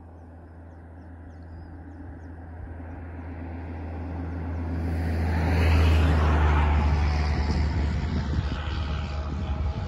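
A road vehicle passing on the highway: it grows louder over the first six seconds, goes by loudest about six seconds in, then slowly fades, a broad tyre-and-engine rush over a low hum.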